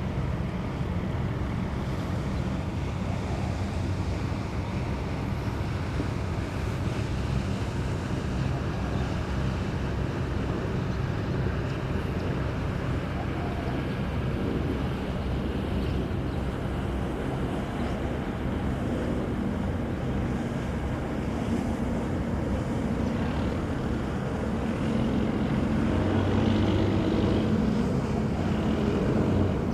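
Steady low rumble of wind buffeting the microphone over harbour and ship-engine noise, growing a little louder near the end.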